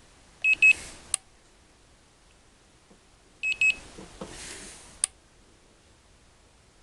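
Handheld infrared thermometer beeping twice, then a click, done twice as two temperature readings are taken off an aluminum intake manifold.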